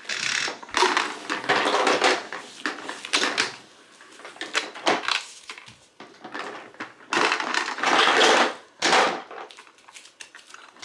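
Small pieces of the Hungry Woodpecker toy rattling and clattering as a toddler handles them, in several irregular bursts of clicking with short pauses between.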